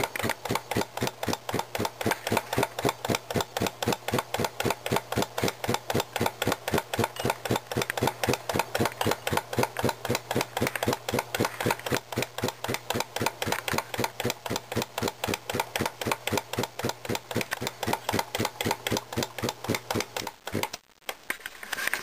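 Antique Brunner air compressor running at speed with a fast, even chugging of its piston strokes, driven by belt from a 1/4 hp GE electric motor that adds a steady electric hum. The motor hum cuts off about a second and a half before the end.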